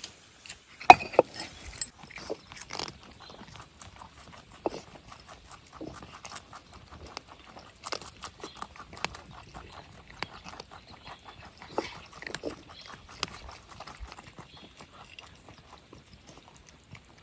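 Rabbits chewing and crunching food: a dense run of small, rapid crunching clicks, with a few louder knocks about a second in.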